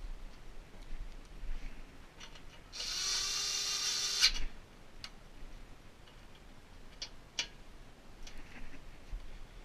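A power drill runs briefly, about three seconds in, spinning for about a second and a half, as it drives a bolt. A few sharp clicks follow.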